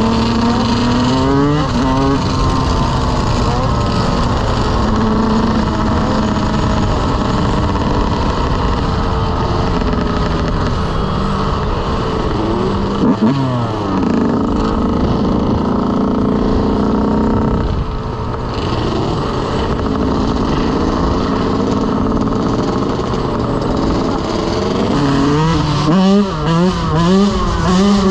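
Dirt bike engines running, their pitch rising and falling with the throttle, with a quick series of revs near the end.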